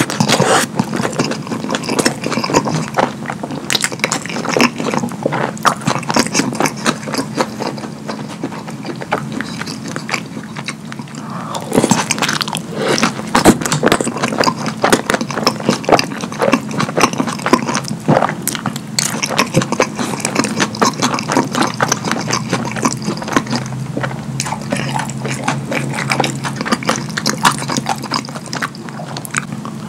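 Close-miked wet chewing and mouth smacking of a person eating a burger drenched in Alfredo sauce: dense, continuous squishing and clicking with occasional louder bites.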